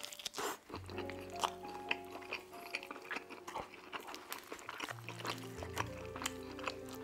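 A mouthful of stuffed-crust pepperoni pizza being chewed close to the microphone, with many short mouth clicks, over soft background music with held low notes.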